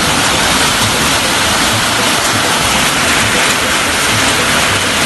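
Heavy storm rain pouring, a steady loud rushing hiss.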